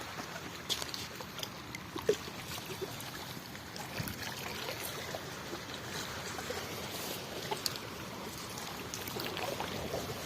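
Shallow water trickling and sloshing, with scattered small splashes and clicks, the sharpest about two seconds in, as it is stirred while small fish are caught.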